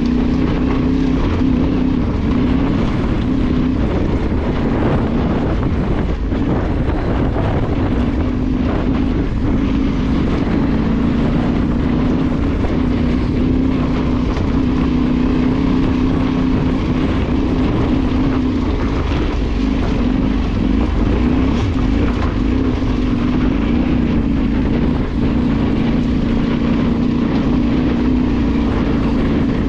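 Off-road motorcycle engine running steadily while ridden, its pitch wavering a little with the throttle, over rumble and wind noise on the microphone.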